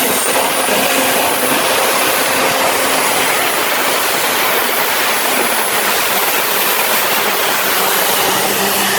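Pulling tractor engine at full power during a pull: a loud, steady, dense roar with a thin high whine held above it.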